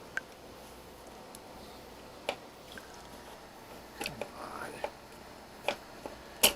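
A few sharp, separate clicks and taps of small parts and equipment being handled, over quiet room tone, with a faint mutter about two-thirds of the way through.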